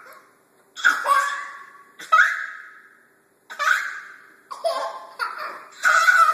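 Two boys making 'pfft' mouth noises and giggling, in about six sharp bursts that each trail off, the last few coming quickly one after another.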